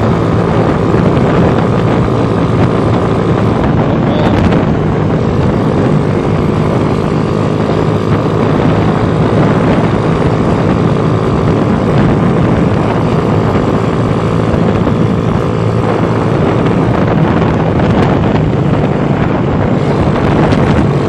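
Motorcycle engine running at a steady cruising speed, heard from the rider's seat with wind rushing over the microphone.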